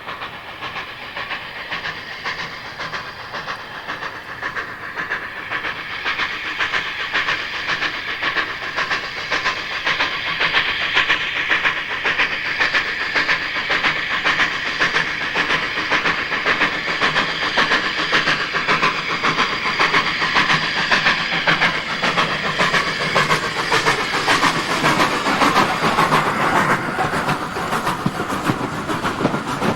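Heritage railway train running and approaching, growing steadily louder.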